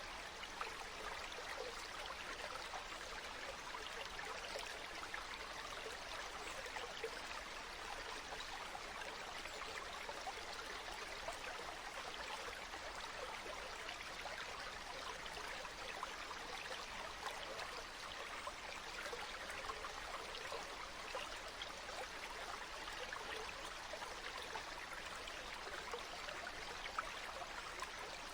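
Water flowing steadily in a stream, a constant trickling rush with no change.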